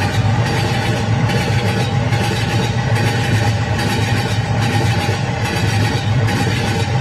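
A moving train running, a steady low rumble with a rushing noise over it.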